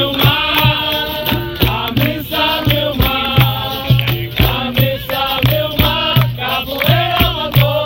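Capoeira roda music: a group of voices singing a chant over steady rhythmic percussion.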